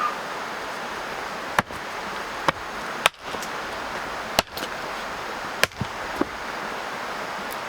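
Five sharp chopping strikes at uneven intervals, roughly a second apart, over a steady background hiss.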